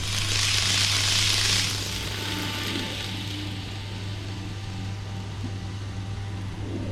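N gauge model shinkansen (Kato 923 Doctor Yellow) running on model track: a steady low hum with a rolling hiss that swells for the first second and a half, then settles lower as the train moves away.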